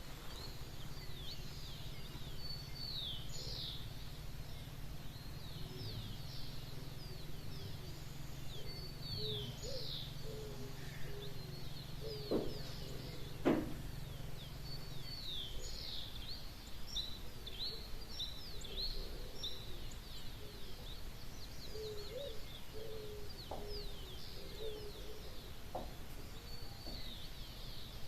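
Dawn chorus of many songbirds giving rapid, short, falling chirps throughout. A low steady hum runs underneath and stops about halfway through, and two sharp clicks come a second apart just before it stops, the second the loudest sound.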